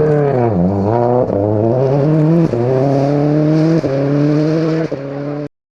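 Rally car engine lifting off briefly, then accelerating hard up through the gears, with four short breaks at the upshifts. The sound cuts off suddenly near the end.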